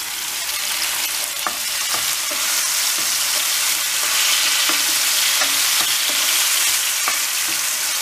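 Diced tomatoes, beef and green peppers sizzling in very hot oil in a frying pan, stirred with a wooden spoon that knocks lightly against the pan now and then. The sizzle grows louder over the first few seconds as the tomato juice cooks off in the hot oil.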